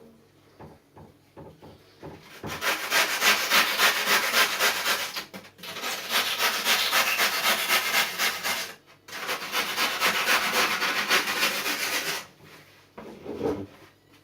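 Sandpaper rubbed over cured poured foam on a surfboard, in three long spells of rapid back-and-forth scratchy strokes with short breaks between them. A few light knocks come before the sanding, and a duller, lower rub comes near the end.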